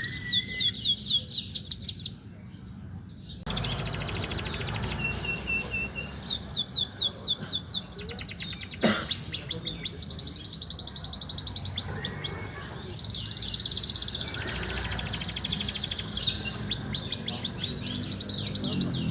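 Domestic canary singing: fast rolling trills and repeated high chirps, with a brief pause about two seconds in.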